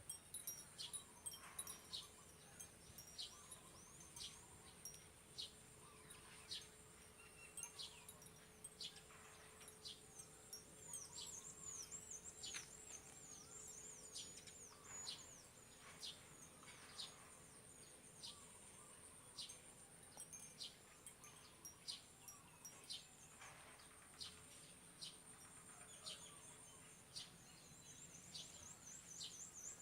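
Faint outdoor bird calls: many short, high whistled notes sweeping downward, some in quick runs, over a steady high-pitched insect drone.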